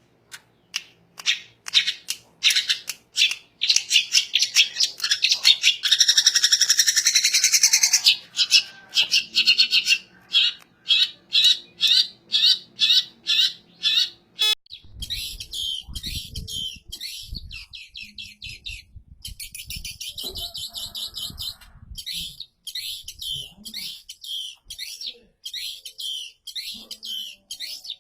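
Long-tailed shrike (cendet) singing a fast, harsh song of repeated sharp notes and squawky chatter. It is most intense a few seconds in. About halfway through it turns to a quieter, busier chatter over a faint low rumble.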